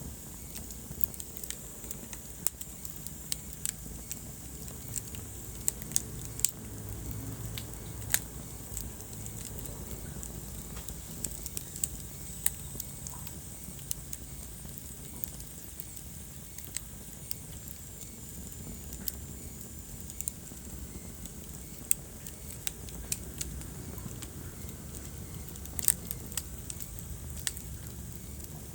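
Wood fire burning in a fireplace: a steady low rumble with irregular crackles and occasional sharp pops from the burning logs.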